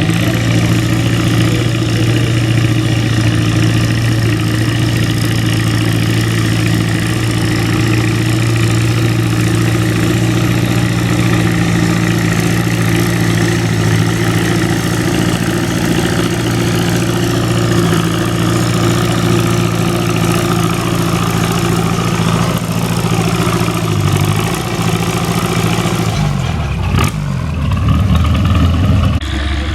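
Antique farm tractor engine running steadily at an even speed. Near the end it slows to a lower pitch, with a brief sharp click.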